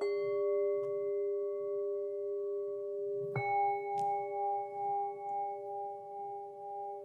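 Singing bowls ringing in long overlapping tones: one is struck at the start, and another about three and a half seconds in adds a higher tone that pulses with a slow wobble.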